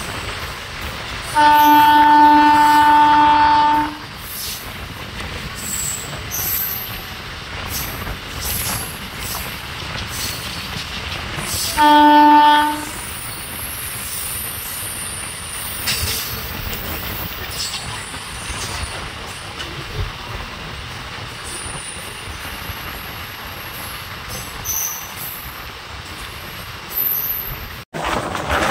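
Train air horn sounding twice over the steady running noise of a moving train: a long blast of about two and a half seconds, then a short blast about ten seconds later. Between the blasts the running noise goes on, with scattered clicks, and it cuts out briefly near the end.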